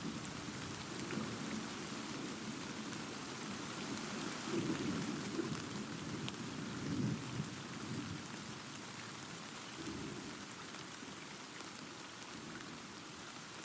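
Steady rain hissing, with low rolling thunder rumbling beneath it. The thunder swells in the middle and fades away near the end, leaving only the rain.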